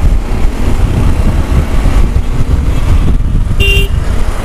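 Heavy wind buffeting on the microphone of a moving motorcycle, with road and vehicle noise underneath. A short vehicle horn toot sounds about three and a half seconds in.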